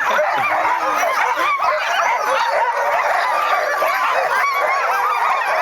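A team of sled dogs barking, yipping and yelping together without pause, many voices overlapping: the eager clamour of dogs impatient to start a run.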